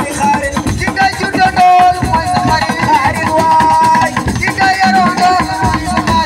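Senegalese assiko band music: a wavering lead vocal melody over dense, continuous drumming and percussion.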